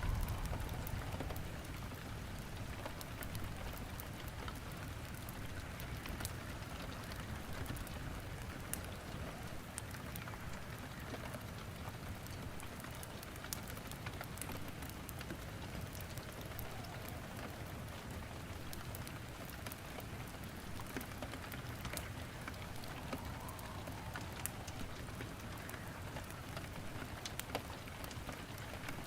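Steady rain falling together with logs burning in a fireplace: an even hiss of rain with scattered sharp pops and crackles of the wood throughout.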